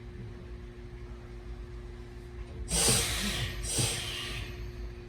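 Hakone Tozan Railway train running, heard as a steady low hum with one constant tone. Near the middle come two short, loud hisses of air, about a second apart.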